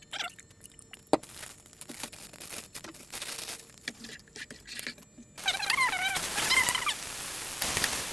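Light clicks and knocks of kitchen handling, then about five seconds in a steady hiss sets in abruptly, with a brief wavering high whine over it.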